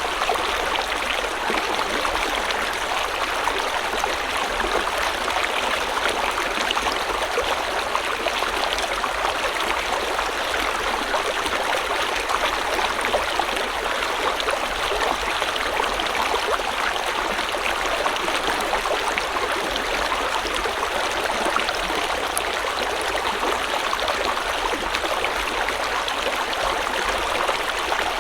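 River water flowing over stones in a steady, even rush with fine babbling detail.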